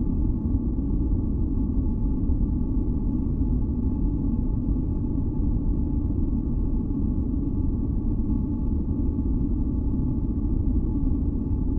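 Continuous deep masking noise, its weight in the low end like brown noise, with a few faint held tones over it; steady and unchanging throughout.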